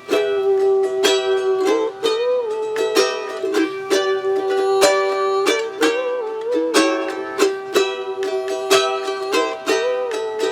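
Instrumental passage of a live song: a small plucked string instrument strummed in a steady rhythm, with a held melody line over it that bends up and down every couple of seconds.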